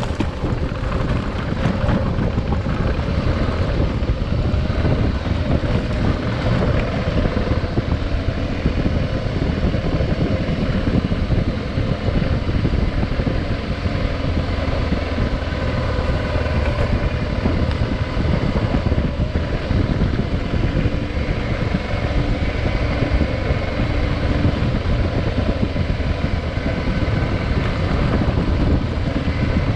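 Adventure motorcycle engine running steadily while riding, with wind buffeting the microphone.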